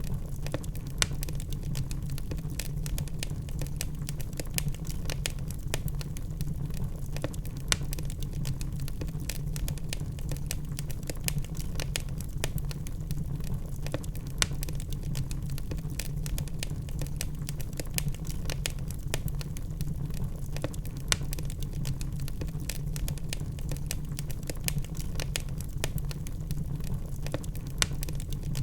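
Wood fire burning in a fireplace: a steady low rumble of flames with dense, irregular crackles and occasional louder pops from the burning logs.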